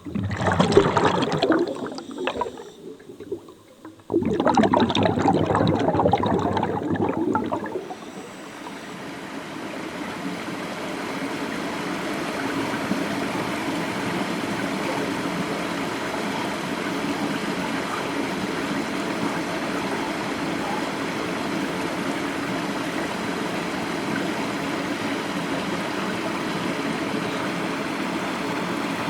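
Stream or river water flowing steadily. Two louder, rougher stretches of water noise fill the first eight seconds before it settles to an even flow.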